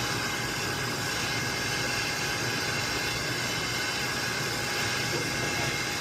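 Steady machinery noise from running HVAC equipment: an even rush with a constant thin whine, unchanging throughout.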